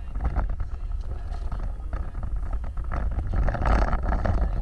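A vehicle driving over rough ground: a steady low rumble with frequent short knocks and rattles, getting louder about three and a half seconds in.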